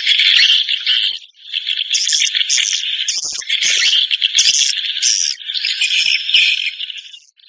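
Dense, continuous chirping and twittering of swiftlets, in long runs broken by brief pauses, with higher chirps laid over it.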